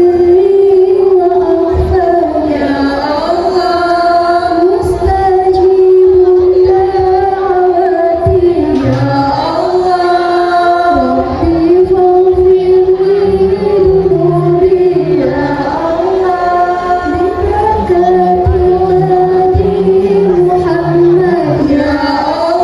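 A song with singing voices carrying a melody in long held notes over music, loud and continuous.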